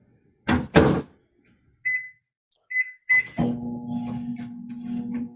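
Microwave oven being started: two thuds, then three short high keypad beeps, then about three and a half seconds in the oven starts running with a steady hum. It has been set for 40 seconds.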